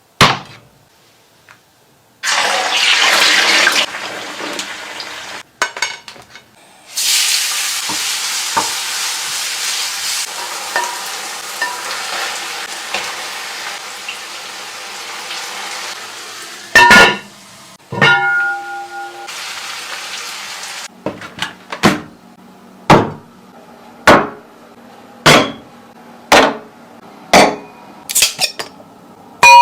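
Kitchen sounds of preparing mantis shrimp: long stretches of steady hiss, then a run of sharp knocks about once a second in the second half.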